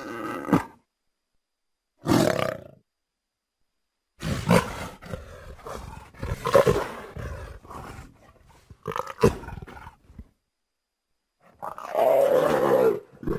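Jaguar roaring and growling in about five separate calls broken by silent gaps. The longest, in the middle, is a run of repeated hoarse grunts. A long loud call comes near the end.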